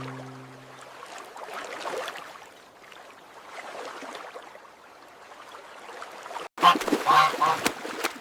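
The last chord of a song dies away, leaving a faint outdoor background. About six and a half seconds in comes a short, loud flurry of goose honks.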